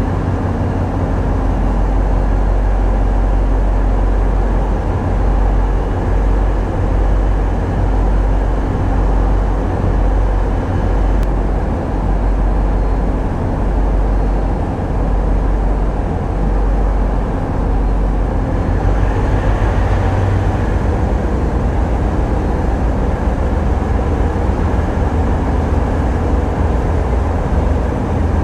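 Tugboat's diesel engines running, a steady deep rumble, with a brief rise in hiss about two-thirds of the way through.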